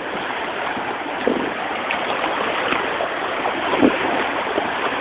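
Steady rushing wash of small waves at the shoreline, with a couple of faint brief sounds over it.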